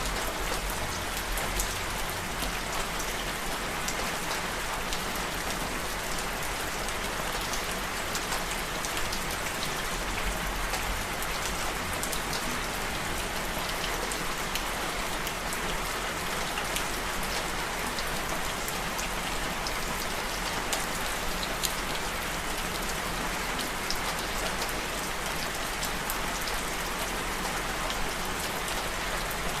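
Steady rain falling, a continuous hiss of drops with many small individual drop taps on a surface.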